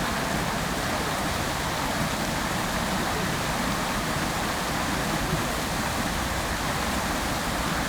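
Fountain jets spraying and splashing steadily into the basin, an even rushing of falling water.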